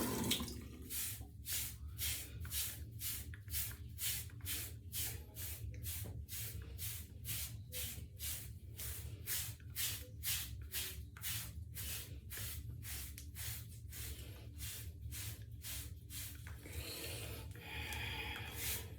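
A bristle hairbrush stroking over short hair in quick, even strokes, about two a second, each a short scratchy swish. The steady strokes give way to a stretch of different, steadier scratching a couple of seconds before the end.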